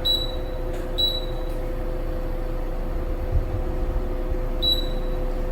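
Dreo Arctic One window air conditioner running with a steady hum, while its control panel gives three short high beeps as its buttons are pressed: one at the start, one about a second in, and one near the end.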